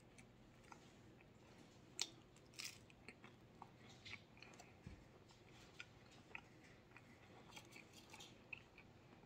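Faint chewing and biting of a hot wing dipped in blue cheese dressing: scattered short wet clicks and smacks, the loudest about two seconds in.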